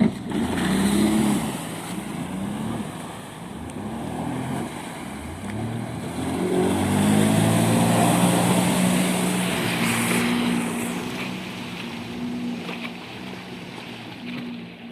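Jet ski engine revving up and down with water and wind noise. It is loudest about halfway through, then eases off to a steadier, quieter drone.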